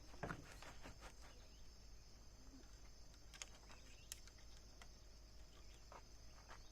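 Faint, steady, high-pitched chirring of insects, with a few light scattered clicks.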